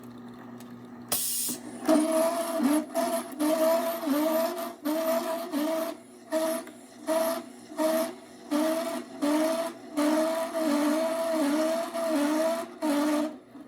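Pneumatically fed fiber-cutting grinder head cutting a piece of cortical bone at 40 psi of feed pressure. After a steady hum and a short hiss about a second in, it grinds in regular pulses, about one and a half a second, each with a tone that dips and recovers, until it stops near the end.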